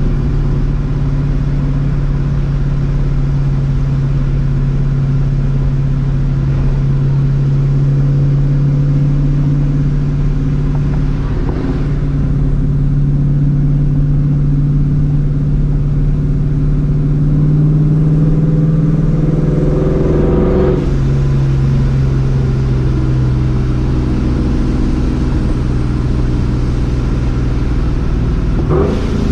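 Vortech-supercharged V8 of a New Edge Mustang GT, breathing through a catless X-pipe and a Borla ATAK exhaust, running steadily at cruise. The engine note changes abruptly about two-thirds of the way in and again near the end, as at gear shifts.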